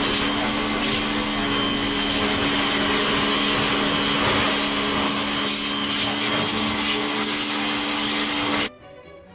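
Black & Decker electric pressure washer running with a steady motor hum and the hiss of its water spray. It cuts off abruptly near the end, and quiet music follows.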